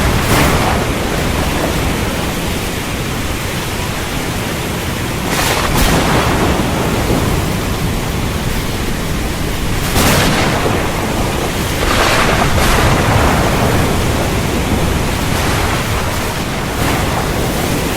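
Heavy rainstorm: dense, steady rain with a low thunder rumble underneath, swelling louder briefly every few seconds.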